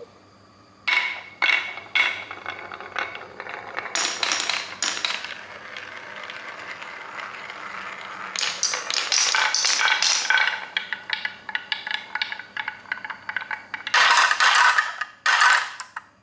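Small hard objects clattering and scraping: an irregular run of clicks and rattles, with two loud bursts of clatter near the end.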